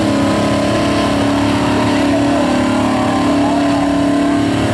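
Holden VN SS Commodore's 5.0-litre V8 held at steady high revs through a burnout, the rear tyres spinning and smoking on the pad.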